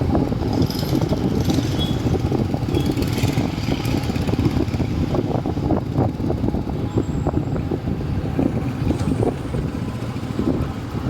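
Motorcycle riding through city traffic: steady engine and road noise with a heavy low rumble.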